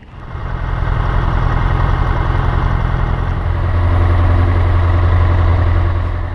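Piper PA-38 Tomahawk's four-cylinder Lycoming engine and propeller running steadily in a ground run after the oil change, with a low, even drone.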